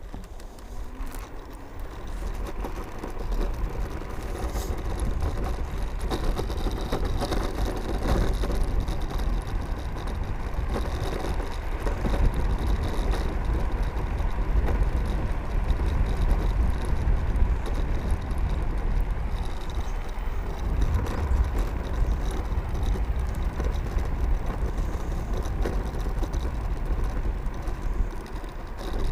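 Wind rushing over the microphone with tyre and road noise as an electric scooter rides along. It builds up over the first few seconds as the scooter gets under way, then holds steady.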